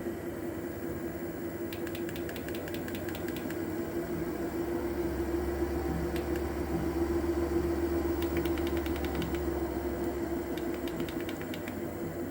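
UREVO SP1 Lite treadmill running at low speed with a steady motor hum and a dull, fast thumping or vibrating noise from inside, too fast to be the belt seam passing the rollers; the owner thinks it could be the motor or a bearing. A low rumble swells in the middle, and short runs of rapid clicking come three times.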